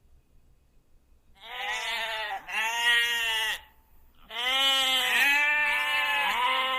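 Sheep bleating: quiet at first, then two short bleats about a second and a half in, followed by a longer drawn-out bleat.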